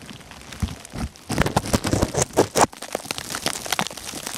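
Snow pattering on a plastic bag wrapped over the camera's microphone, with the bag crinkling, and a louder stretch of crackling and rustling from about one to two and a half seconds in.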